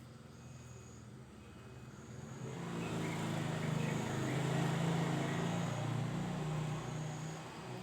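A motor vehicle passing by: a low engine hum that swells to its loudest about halfway through, then fades away.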